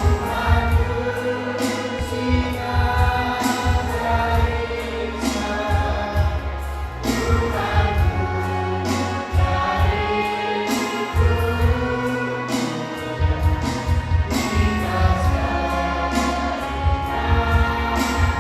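A group of voices singing together in long, held notes over instrumental accompaniment with a strong bass and a steady beat.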